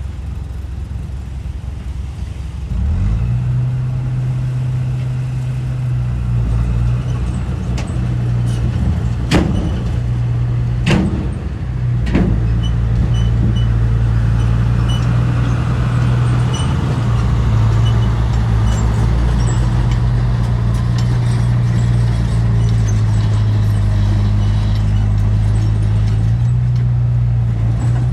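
Diesel engine of a bulldozer or dump truck running steadily under load, stepping up louder about three seconds in. Three sharp knocks come in the middle, a second or so apart.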